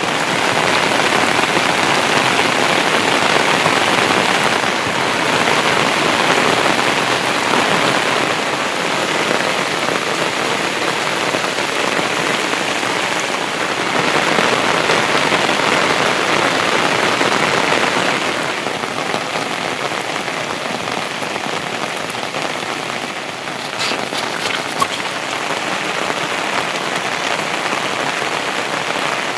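Heavy monsoon rain falling, a dense steady hiss that swells and eases slightly, softening a little about two-thirds of the way through, with a few faint ticks of drops near the end.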